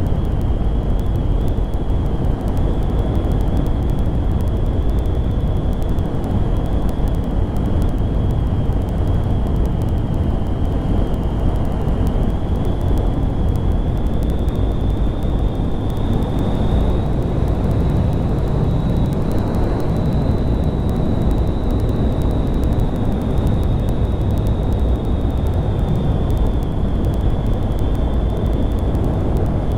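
Honda Grom 125 motorcycle under way, its single-cylinder engine running steadily beneath heavy wind rush on the microphone. A thin high whine rises slightly in pitch partway through and then holds.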